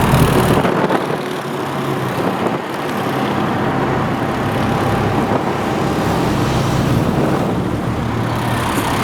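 Car driving along a street: steady engine and road noise.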